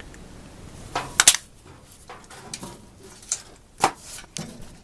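A handful of sharp clicks and knocks from furnace parts being handled and fitted as the filter and its holder go back in. The loudest is a quick double knock about a second in, and single ones follow near the end.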